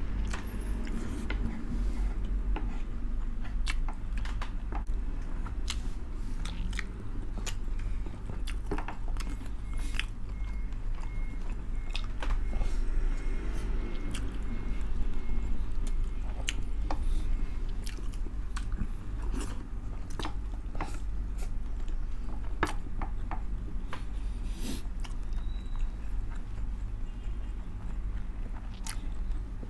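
Close-miked chewing and lip-smacking of two people eating pork blood stew and rice with their hands, with many short, sharp wet mouth clicks. A steady low hum runs underneath.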